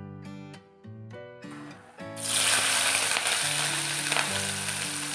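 Sliced green chillies dropped into hot oil in a kadhai, setting off a sudden loud sizzle about two seconds in that keeps on steadily. Background music plays throughout.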